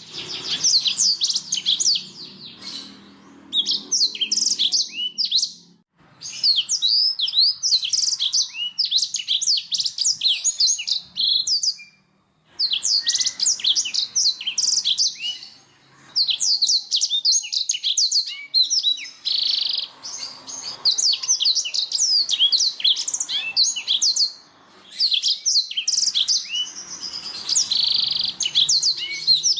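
Domestic canary singing long, rapid trilled phrases of fast high chirps, with brief pauses between the phrases about six, twelve, sixteen and twenty-five seconds in.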